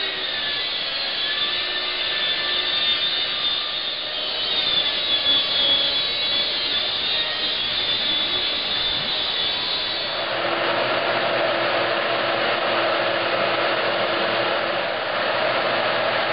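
Power saw, likely a track saw, ripping a sheet of 1/2-inch plywood, its blade whine wavering in pitch as it cuts. About ten seconds in, the sound changes to a steadier, fuller machine noise with a fixed hum.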